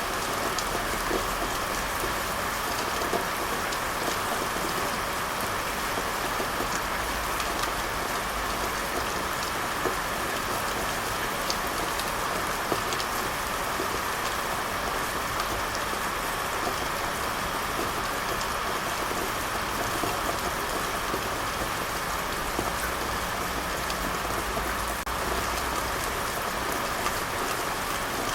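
Steady rain falling, an even hiss of drops with scattered sharper individual drop ticks, unchanging throughout.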